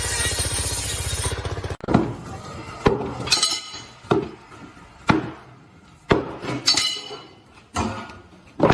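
Sharp clinking strikes on a hard, ringing material, about once a second, each with a brief bright ring, following a short stretch of music that cuts off about two seconds in.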